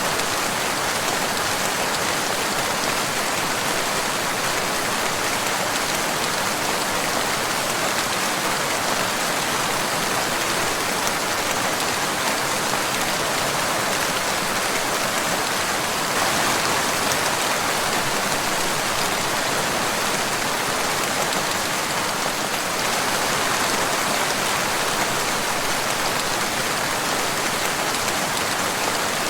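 Steady rain falling: an even hiss of countless drops that holds the same level throughout, with no thunder.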